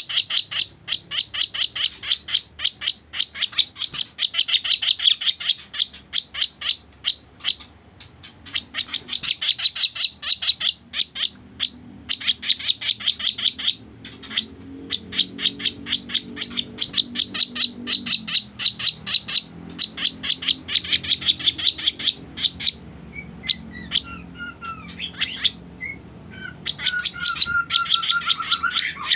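Bird calls of the kaso-kaso, as used in a trapping lure recording: fast, sharp ticking notes in runs of a few seconds with short breaks. Lower chirping notes come in near the end.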